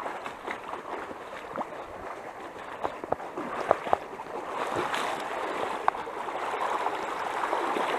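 Stream water rushing over rocks, growing slowly louder toward the end, with scattered short splashes and knocks from people wading up the streambed.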